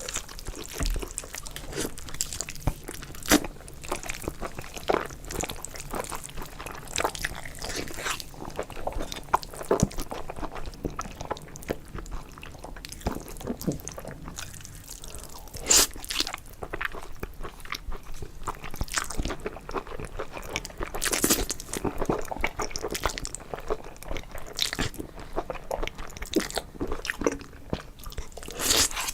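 Close-miked eating sounds: a person chewing and biting, with many irregular sharp mouth clicks and crunches.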